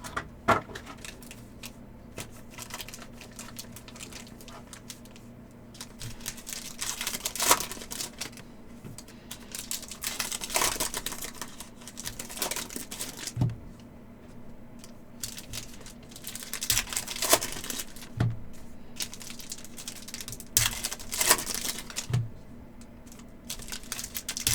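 Foil wrappers of Upper Deck hockey card packs crinkling and tearing open, with cards clicking and sliding as they are handled. Irregular bursts of crackle and sharp taps.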